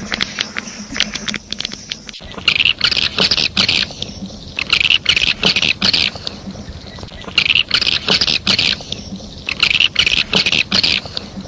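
Edible-nest swiftlet lure call, played back: sharp rapid clicking runs throughout, broken four times by bursts of high, buzzy twittering chirps about every two and a half seconds.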